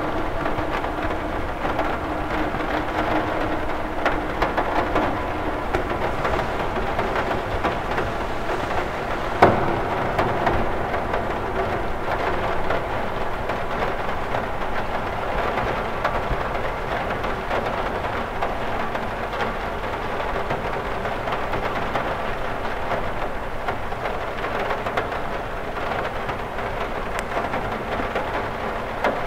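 Rain falling steadily on a cathedral window, a dense even spread of small drop ticks on the glass, with one sharper, louder tap about nine and a half seconds in.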